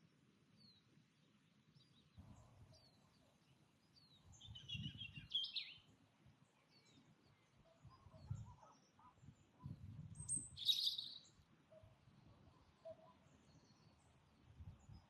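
Wild birds singing faintly outdoors: scattered short high chirps, with two louder bursts of song about five and eleven seconds in. A low rumble comes and goes underneath.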